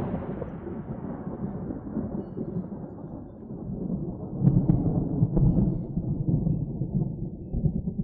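Thunder rolling: the rumbling tail of a clap fades and loses its highs, then swells into a fresh low rumble about halfway through and again near the end.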